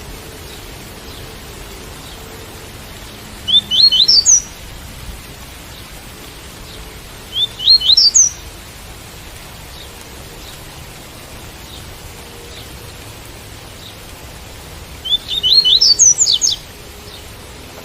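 Double-collared seedeater (coleiro) singing its tui-tui song: three short phrases of quick rising notes, the last the longest. Steady rain hiss runs underneath.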